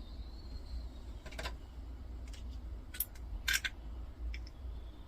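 A few light clicks and knocks from the parts of an old electricity meter being handled during its teardown, the loudest a short cluster about three and a half seconds in, over a steady low hum.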